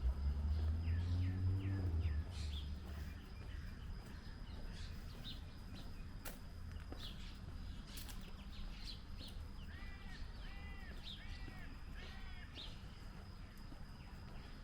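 Birds chirping in short repeated calls over steady street background, with a run of quick arched calls about two-thirds of the way in. A loud low rumble with a rising tone fills the first two seconds, then fades.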